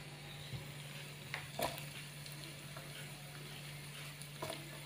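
Faint sizzling of chicken and sausage pieces frying in a nonstick pan on a portable gas stove as flat rice noodles (kwetiau) are dropped in, with a few light taps scattered through.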